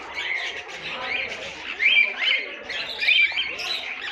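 Many small aviary birds chirping at once: a dense, unbroken chorus of short, high overlapping chirps.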